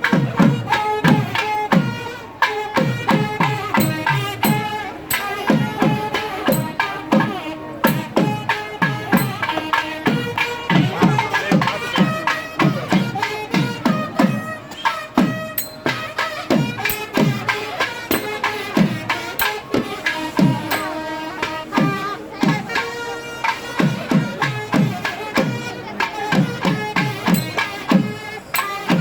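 Live South Indian temple festival music: fast, continuous drumming in which many strokes drop in pitch, under a sustained melody.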